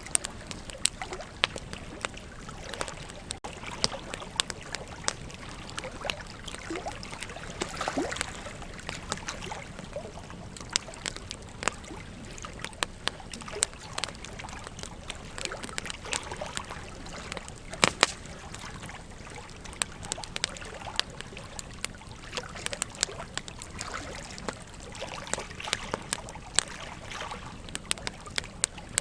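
Wood campfire crackling, with irregular sharp pops and snaps, the loudest about eighteen seconds in, over the steady rush of a river.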